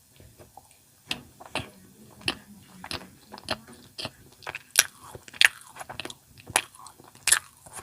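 Close-miked chewing of a crunchy snack: a string of irregular crisp crunches, a few each second, with the sharpest bites coming in the second half.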